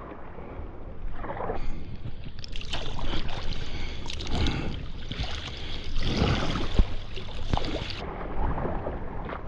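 Kayak paddle strokes dipping and splashing in the water, in a slow, even rhythm, with water moving along the kayak's hull.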